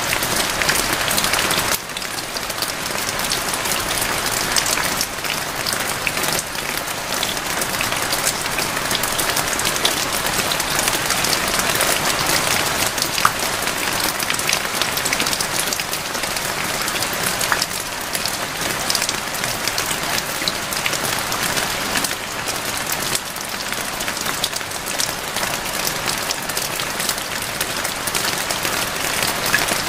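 Steady rain: a dense, even hiss of falling rain with many sharp ticks of single drops striking surfaces.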